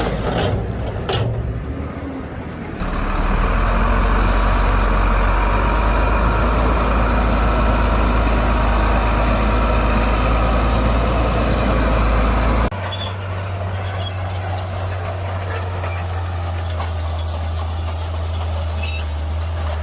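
Heavy diesel engine of earthmoving machinery running steadily, working hard and louder for about ten seconds, then dropping suddenly to a lower, steady running note.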